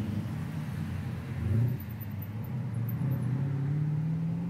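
Old Holden cars driving past on the road, engines running. Near the end one engine's note rises steadily as it picks up speed.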